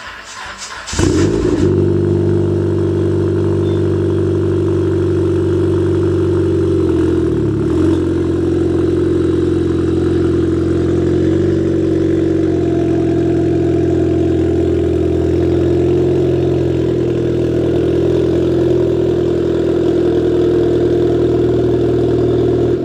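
Dodge Caliber SRT4's turbocharged 2.4-litre four-cylinder engine cranking briefly, catching about a second in, then idling steadily with a couple of small dips in engine speed.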